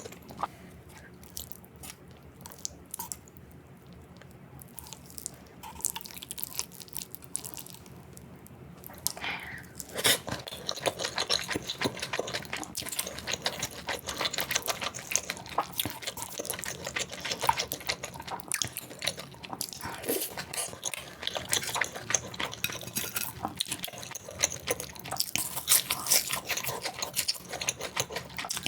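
Sped-up, close-miked eating sounds: rapid wet clicks, smacks and crunches of biting and chewing. They are sparse and quieter for the first several seconds, then come thick and louder from about ten seconds in.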